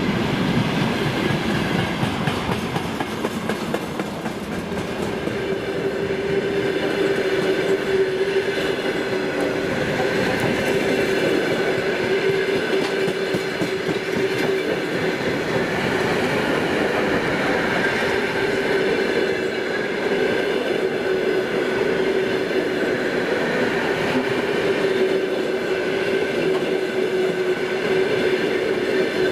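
Freight train rolling past, its wagons' wheels clattering over the rail joints with a continuous rumble. A steady ringing tone sets in about five seconds in and runs on under the clatter.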